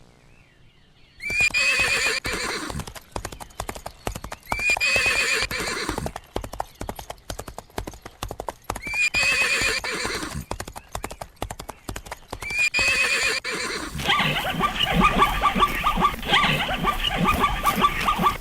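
Horse hooves clip-clopping at a fast, even pace. A horse neighs four times at regular intervals with the same falling whinny each time, like a repeated sample. Near the end a different, longer horse call takes over.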